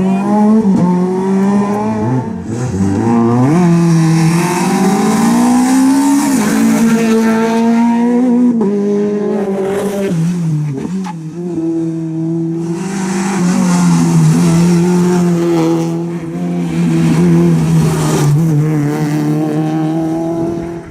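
Rally car engine working hard on a special stage, its pitch climbing and falling several times as it accelerates, lifts and changes gear, then holding a steady pitch for the last several seconds.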